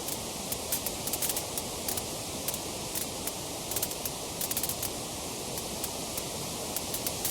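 Wood fire in a fireplace crackling: irregular sharp snaps and pops, some in quick clusters, over a steady hiss.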